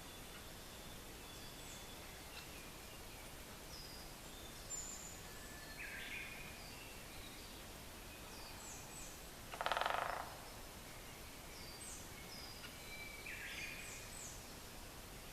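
A great spotted woodpecker drums once, a rapid roll of strikes on wood lasting about half a second, about ten seconds in. Around it, other forest birds give scattered short, high calls.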